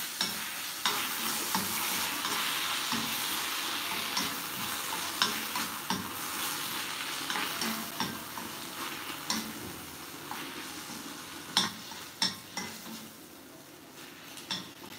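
Chopped tomatoes and green chillies sizzling as they are sautéed in a stainless steel kadai, with a wooden spatula stirring them and knocking and scraping against the pan in irregular clicks. The sizzle grows quieter after about ten seconds, and a few sharper knocks of the spatula come soon after.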